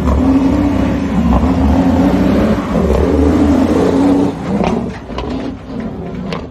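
Truck engine running hard under acceleration, its steady pitch broken by short breaks about once a second as it goes through gear changes. It falls away about four seconds in, with a few sharp knocks after.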